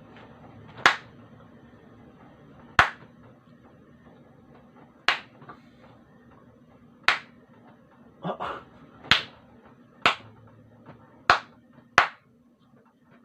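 Sharp single hand smacks, about eight of them, one every one to two seconds: a baby slapping or clapping.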